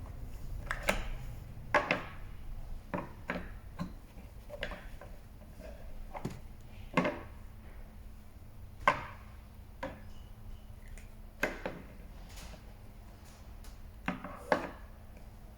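Toy pieces being handled and fitted together: about a dozen sharp clicks and knocks at irregular intervals.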